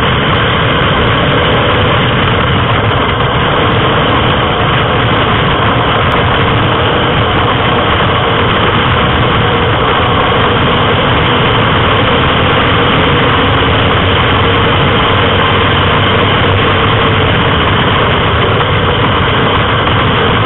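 Morgan sports car's engine running hard at racing speed, heard from on board. The sound is loud and steady, with road and wind noise mixed in.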